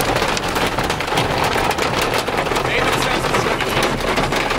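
Rain and hail pelting the car, a steady dense patter of hits.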